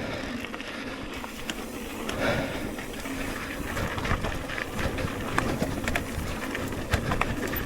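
Electric mountain bike riding over rough dirt trail: tyres rumbling, with frequent sharp clicks and knocks from chain slap, suspension and frame rattle. It grows louder about a second in.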